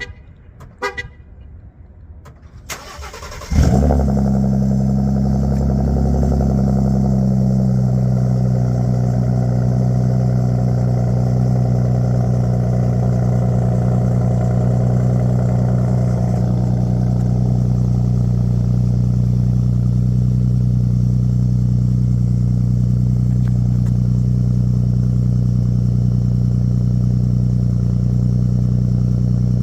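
2018 Ford F-150's 3.5 L EcoBoost twin-turbo V6 cold-starting through an AWE 0FG exhaust with a 3-inch Borla resonator. A brief crank about three seconds in, a loud flare as it catches, then a steady idle. A few short clicks or chimes come before the start.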